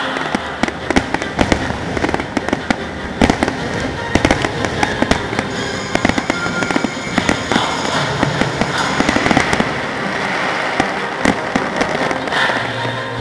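Fireworks going off in a dense barrage: many sharp bangs and crackles in quick succession.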